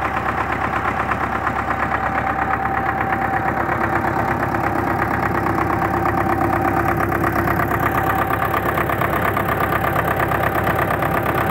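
D-243 four-cylinder diesel engine running steadily with an even, rhythmic beat, just after repair of its injection pump. The owner suspects the injection timing is set slightly early.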